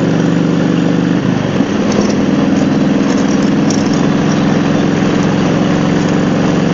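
Harley-Davidson Road Glide's V-twin engine running under way, with a steady rush of wind over it. The engine note breaks and settles at a different pitch a little over a second in.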